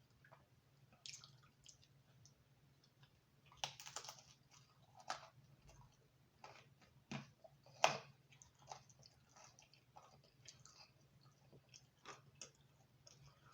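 Close-up eating sounds of thin crispy-crust pizza: soft mouth clicks and chewing, with a few louder crunchy bites, the loudest about eight seconds in, over a faint steady hum.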